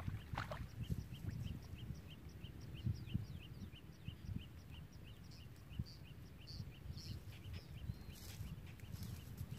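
A bird calling a long, even series of short chirps, about three a second, over a low rumbling noise.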